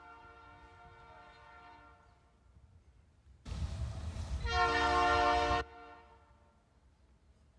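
Freight locomotive's multi-chime air horn: a blast dies away in echo, then about three and a half seconds in the locomotive's rumble comes up and the horn sounds again for about a second, cutting off abruptly with its echo fading after.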